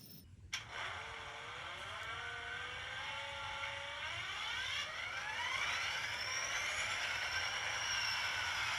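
A click, then a mechanical whine that rises steadily in pitch for several seconds, growing louder, and levels off high near the end, like a motor speeding up.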